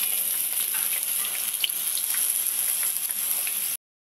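Round eggplant (brinjal) slices shallow-frying in hot mustard oil in a pan: a steady sizzle with scattered small crackles and pops. It cuts off suddenly near the end.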